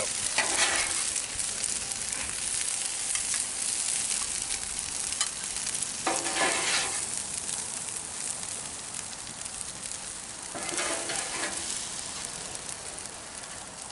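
Stir-fried noodles, chicken and vegetables sizzling steadily on a Blackstone flat-top griddle. A metal spatula scrapes and scoops across the griddle three times as the food is lifted off to plate it.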